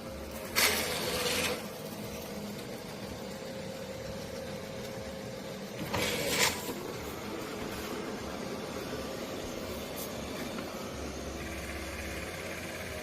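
Vacuum cleaner running with a steady motor hum, broken twice by short loud bursts of hiss, about a second in and again about six seconds in.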